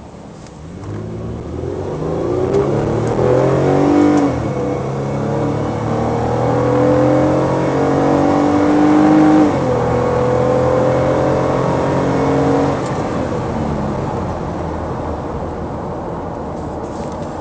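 2011 Toyota Sienna minivan's engine under hard acceleration from a standstill through its automatic transmission. The engine note climbs in pitch and drops back at each upshift, about four, nine and a half and thirteen seconds in, and runs quieter after the last one.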